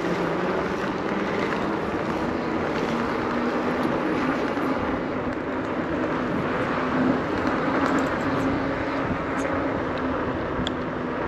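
Steady rush of wind and rolling noise from riding an e-bike, with a faint steady hum underneath.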